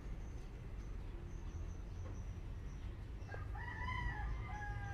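A bird's long call, held for about a second and a half, starting about three and a half seconds in, over a low steady background hum.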